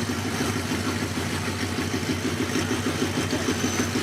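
A car engine idling steadily with a fast, even pulse.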